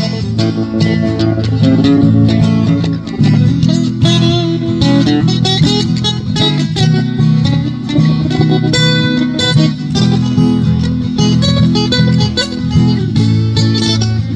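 Country band playing an instrumental break between verses, led by guitar over a steady bass line.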